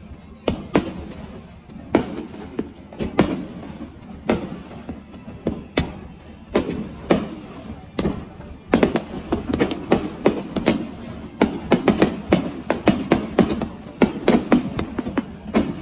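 Fireworks bursting, a series of sharp bangs that come singly at first and become a rapid barrage from about nine seconds in.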